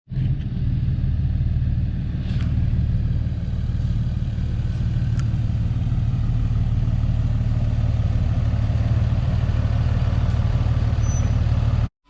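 5.9 Cummins turbo diesel engine of a 2007 Dodge Ram 3500 running steadily, loud and close, then cutting off suddenly near the end.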